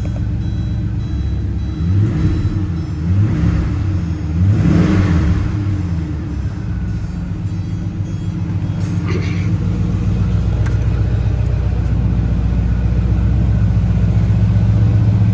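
1995 Porsche 928 GTS 5.4-litre V8 running shortly after a cold start, its engine speed rising and falling briefly three times in the first few seconds as the car is moved, then settling into a steady idle.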